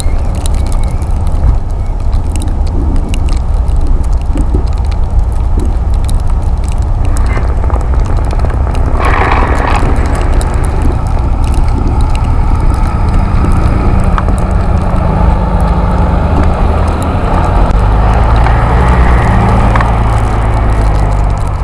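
Steady low rumble of wind and road noise on the camera's microphone while riding a Busetti Vortex electric bike through snow, with scattered small clicks and crackles. A low steady hum joins in a little past halfway.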